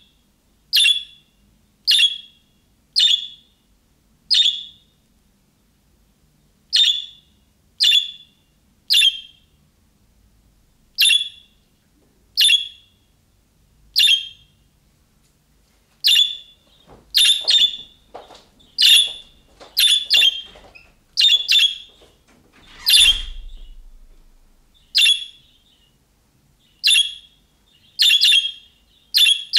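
Budgerigar giving short, sharp contact calls over and over, about one a second. There is a pause of a couple of seconds early on and a quicker, denser run of calls past the middle. About three quarters through, the loudest call comes with a low thump.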